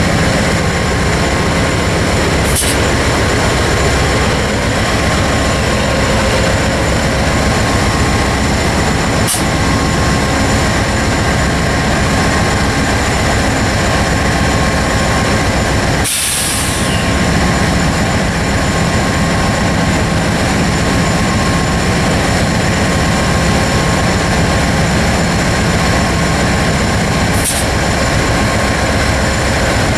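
A train running past at close range: a loud, steady rumble with a droning engine note, broken four times by brief high hisses or squeals, the strongest about halfway through.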